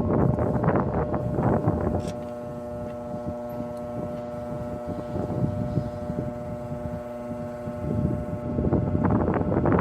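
A steady machine hum with several even tones, with gusts of wind rumbling on the microphone in the first two seconds and again near the end.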